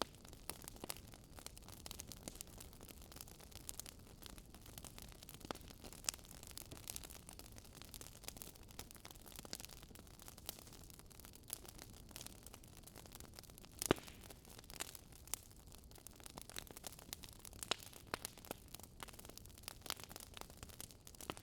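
Wood fire crackling: irregular pops and snaps over a low steady hiss, with one sharper pop about fourteen seconds in.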